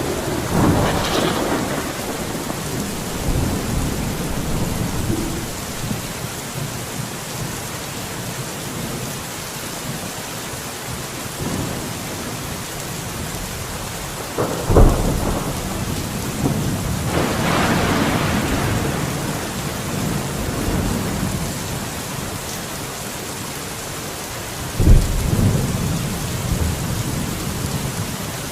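Steady rain falling. It is broken by two sudden low booms, one about halfway through and one near the end, and by a couple of slower swelling rumbles.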